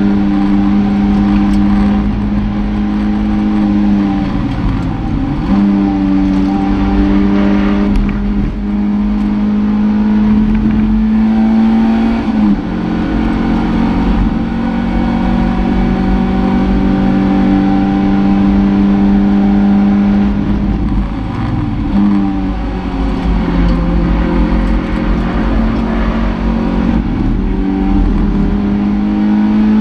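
Toyota MR2 race car's engine heard from inside the cabin, running hard at steady high revs. Its pitch dips briefly about four seconds in, around twelve seconds, around twenty-one seconds and near the end, as the driver changes gear and lifts off for corners.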